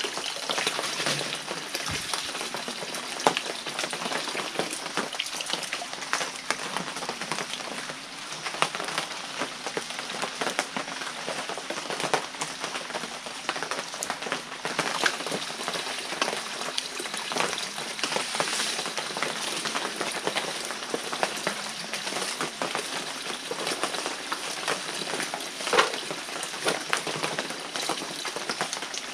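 Water trickling and splashing at a small forest stream: a steady, dense patter of small splashes and drips.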